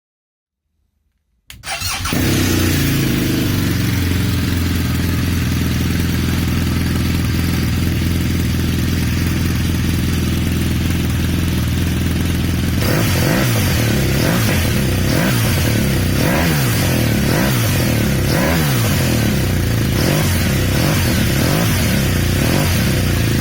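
BMW R1200R LC's boxer twin breathing through a Cobra Powershot exhaust with its dB killer removed, starting about a second and a half in and idling steadily. About halfway through it is revved repeatedly, the pitch rising and falling about once a second, until it cuts off suddenly near the end.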